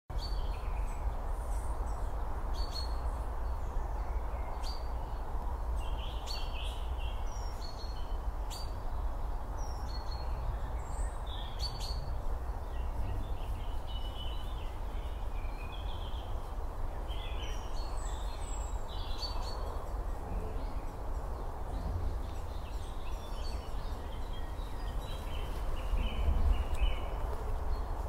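Small birds chirping over a steady low outdoor background rumble. The chirps come thick in the first half and again later, then thin out near the end, when the low rumble briefly swells.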